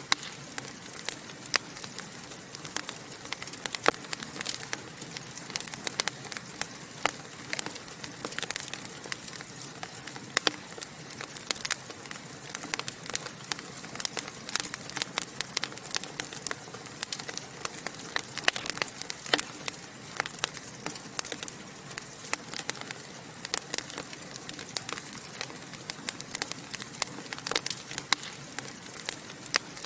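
Fire in a fireplace crackling and popping: many sharp, irregular pops over a steady hiss.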